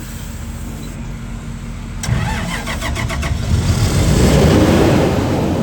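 Standby generator engine started: a click about two seconds in, then about a second of starter cranking before the engine catches and runs steadily.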